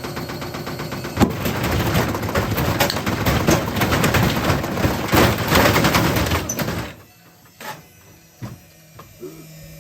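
LG washing machine spinning with loose objects thrown into its drum, a loud rapid clatter of banging and rattling. About seven seconds in the clatter suddenly dies away, leaving a few single knocks and a faint hum.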